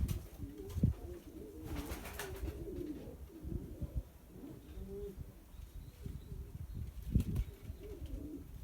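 Domestic pigeons cooing, several low wavering coos overlapping one after another, with a few low thumps.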